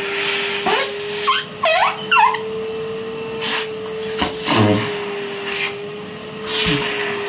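Numatic Henry cylinder vacuum cleaner running with a steady motor hum, described as too loud. A few brief sweeping squeals come about a second and a half in, and there are several short rushes of air from the nozzle as it sucks at a pair of gloves.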